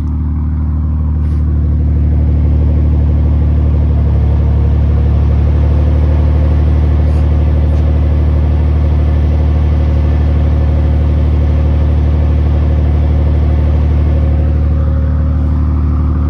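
BMW M240i's B58 turbocharged 3.0-litre inline-six idling steadily through a muffler-delete exhaust, a deep even drone at its raised cold-start idle shortly after startup.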